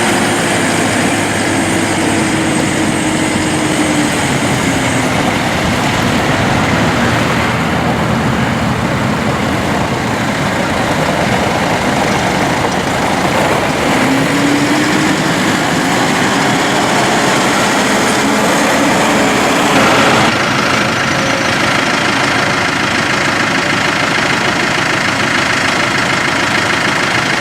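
New Holland T4.75 tractor's diesel engine running, its pitch falling over the first few seconds and rising again about halfway through as engine speed changes.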